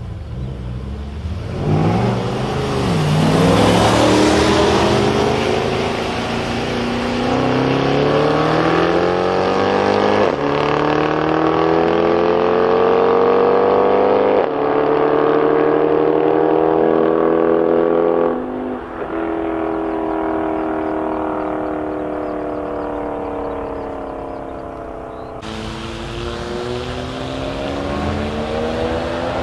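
BMW M5's 5.0-litre V10 with a KKS race exhaust launching hard from a standing start about two seconds in and pulling at full throttle. Its pitch climbs steadily through each gear and drops back at upshifts about 10, 14 and 18 seconds in. After a sudden cut near the end, the engine revs up again.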